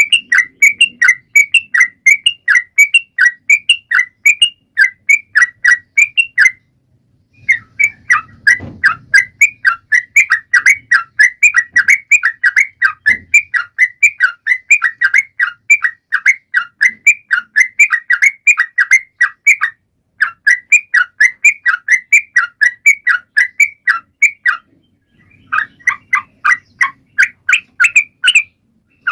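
Trucukan (yellow-vented bulbul) singing energetically: a fast, steady run of short sharp chirping notes, about four a second, broken by two brief pauses.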